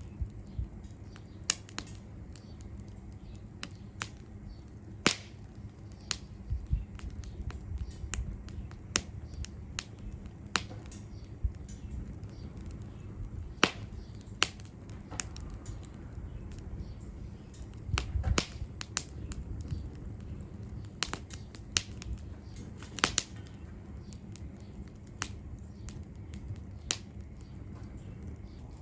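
Wood fire crackling in a steel fire stand: firewood popping and snapping in sharp, irregular cracks, a few louder pops standing out, over a low steady rumble.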